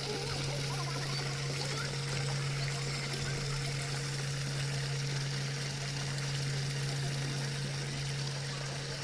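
Steady running water of a stream, an even rushing without breaks, over a steady low hum.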